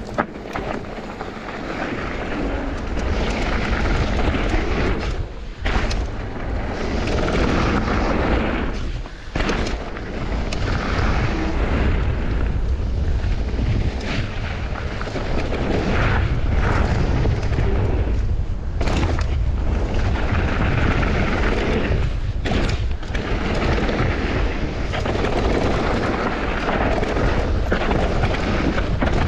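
Mountain bike ridden fast down a bikepark trail, with heavy wind rumble on the microphone, steady tyre and rolling noise, and a few sharp knocks from bumps.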